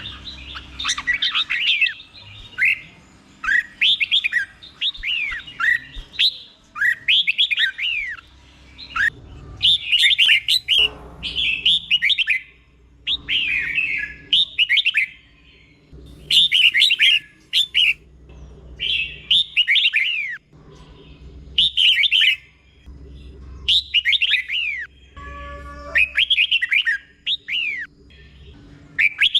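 Red-whiskered bulbul singing its doubled-phrase song, repeating short phrases of quick downward-slurred whistled notes with brief pauses between them.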